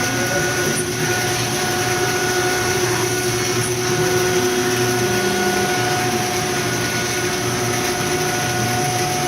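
A CNC cutting machine running as it cuts out PlasDeck PVC boat-deck material. There is a steady motor whine over a constant hiss, with a lower hum that changes pitch in short steps as the machine moves.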